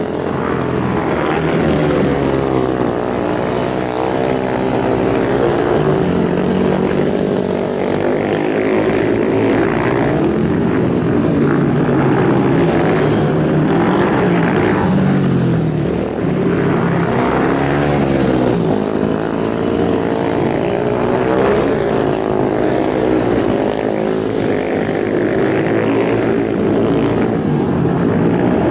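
Several superbike engines revving at high speed together, their pitches rising and falling and overlapping without a break.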